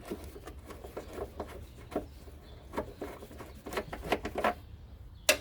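Scattered light clicks and knocks of hand tools and parts being handled while working on the truck, with a bunch of quick clicks near the end and one sharp click just before it stops.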